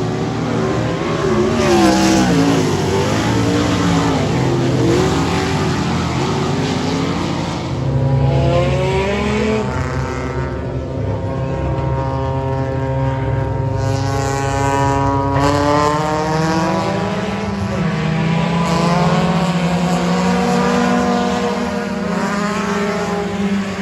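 Race car engines running laps on a dirt oval, their pitch climbing as they accelerate and dropping as they lift. Several engines overlap at first, then one climbs steadily for several seconds, falls away about fifteen seconds in, and climbs again near the end.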